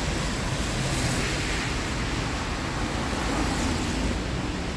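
Steady rushing outdoor noise of road traffic on wet streets mixed with wind on the microphone, with a slight swell about a second in.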